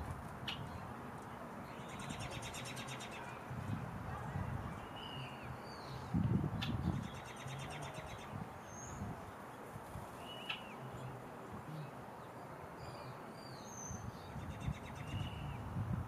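Songbirds calling: scattered short high chirps and sharp call notes, with three rapid buzzy trills of about a second each, near the start, in the middle and at the end. Underneath is a low rumble that swells loudest about six seconds in.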